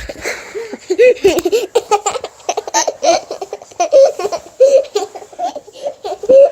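A young child laughing hard in many short, repeated bursts of giggles.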